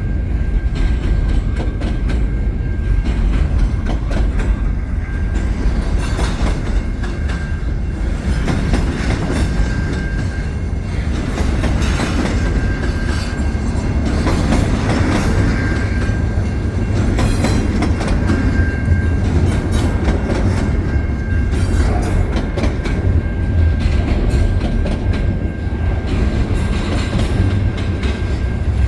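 Freight cars of a CN double-stack container train rolling past: a steady low rumble with the clatter of wheels over the rails, and a faint high squeal that comes and goes.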